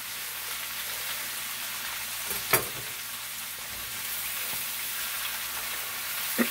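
Chopped cabbage and kielbasa sizzling steadily in a large oiled skillet while being stirred. One sharp clack of the utensil comes about two and a half seconds in, and another right at the end.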